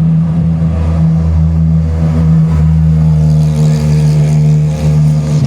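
GT3 race car engines running, a loud steady drone.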